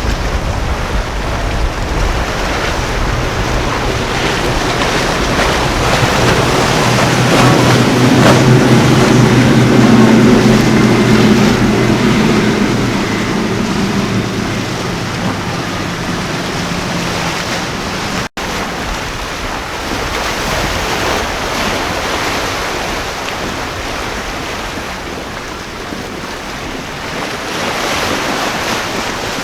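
A motorboat's engines droning as it passes through the inlet, rising to their loudest about ten seconds in and then fading, over constant surf and wind buffeting the microphone.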